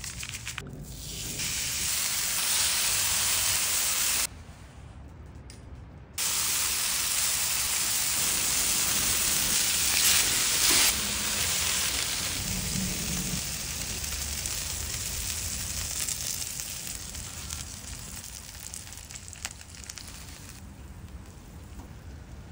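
Beef patties frying on a hot flat-top griddle, giving a steady, loud sizzle. It drops away for a couple of seconds about four seconds in, then fades gradually toward the end.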